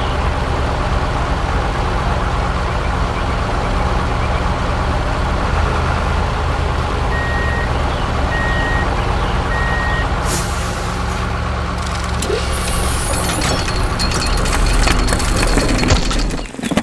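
Heavy truck engine running steadily, with three short reversing beeps about halfway through. A hissing, rattling noise joins in for the last several seconds.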